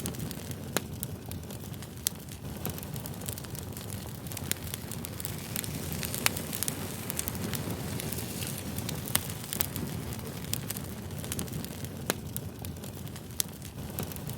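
Campfire crackling: a steady low rush of burning wood with sharp pops and snaps scattered irregularly through it.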